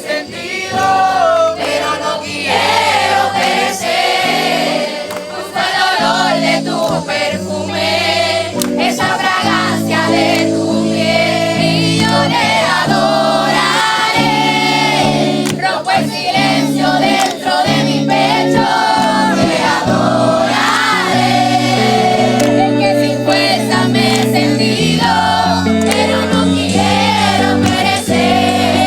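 Voices singing a Spanish-language Christian worship song together, over instrumental accompaniment of held chords that change every couple of seconds.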